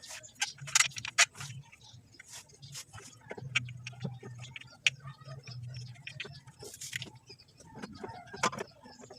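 Metal hand tools and starter motor parts clinking and knocking during reassembly: an irregular scatter of sharp clicks and taps, with a low hum coming and going underneath.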